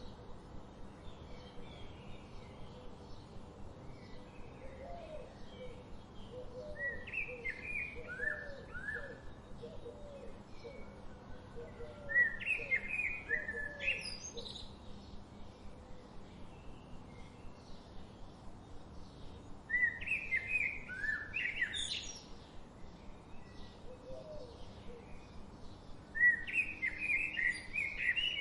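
A songbird singing four loud phrases of quick notes ending in rising whistles, a few seconds apart, over faint steady chirping from other birds. A lower, quicker series of notes runs through the first half.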